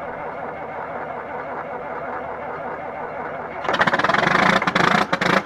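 John Deere tractor diesel engine turning over on a cold start with a steady drone. About three and a half seconds in it breaks into a much louder, harsh rapid clatter, ragged and uneven near the end.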